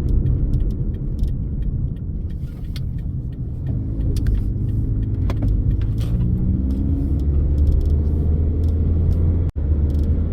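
Car engine and road rumble heard from inside the moving vehicle, the engine note rising as it accelerates from about four seconds in. The sound drops out for an instant near the end.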